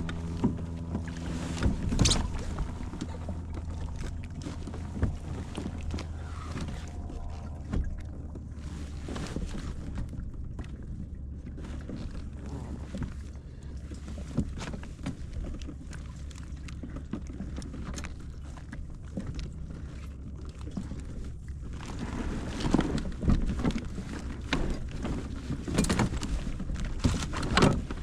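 Handling noises on a fishing kayak: water sloshing against the hull and scattered knocks of gear on the boat, with light wind on the microphone. A low steady hum runs underneath. The knocks come a few at a time early on and grow busier in the last several seconds.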